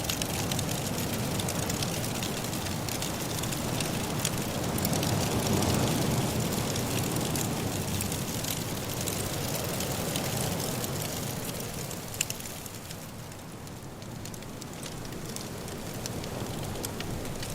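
Wood fire crackling in a fireplace, with scattered small pops and one sharper pop about twelve seconds in, over a steady rushing blizzard wind that swells about five seconds in and eases later.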